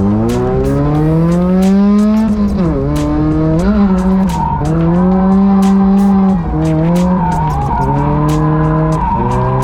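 Drift car engine revving hard, its pitch climbing over the first two seconds, then dropping and rising again several times as the revs fall and pick back up, with tyre squeal and skidding over it.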